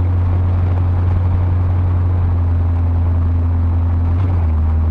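1977 Ford Ranchero's 351 Windsor V8 running steadily with a loud, even low drone; about four seconds in, its pitch drops slightly.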